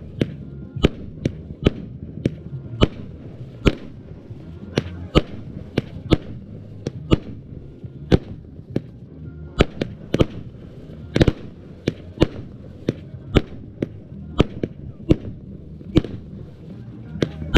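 Campesino Revenge 100-shot firework cake firing shot after shot: a string of sharp bangs, about two a second, over a low rumble.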